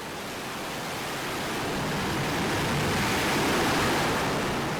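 Jet engine noise on an aircraft carrier flight deck: a loud rushing roar that swells to its loudest about three and a half seconds in, then eases off.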